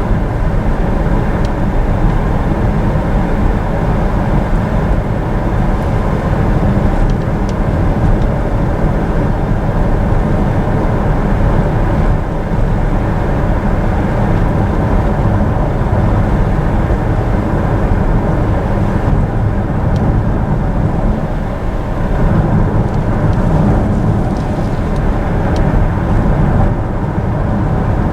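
Steady road noise inside a moving vehicle's cabin: a constant low rumble of tyres and engine, with a few faint clicks.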